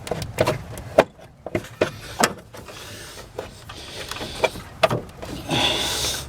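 A part in a car's engine bay being worked back and forth by hand to pull it free: scattered clicks and knocks, then a longer scraping rub near the end.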